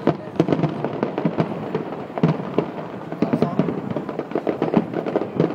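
Aerial fireworks display going off: many sharp bangs and crackles in quick, irregular succession.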